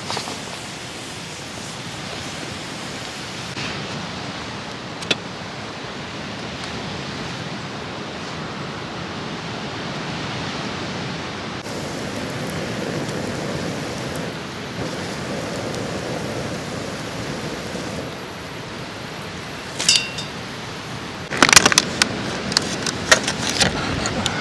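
Steady rushing outdoor noise, with a few single clicks and then, about three quarters of the way through, a burst of sharp metallic clinking and rattling, like camp gear being handled.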